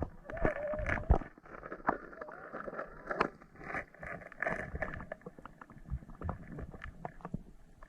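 Shallow stream water splashing and sloshing, with many irregular clicks and knocks.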